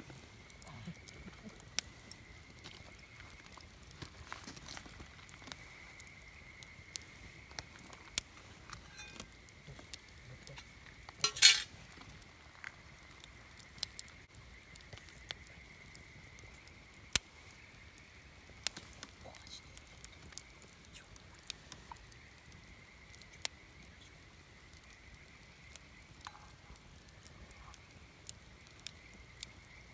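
Wood campfire crackling: scattered sharp pops and snaps, with a quick run of louder crackles about eleven seconds in, over a faint steady high-pitched tone.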